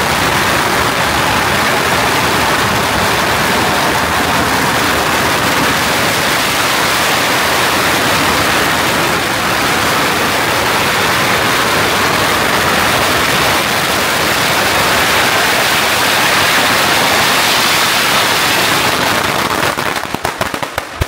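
Long string of firecrackers going off in a loud, dense continuous crackle, thinning to separate bangs near the end before it stops.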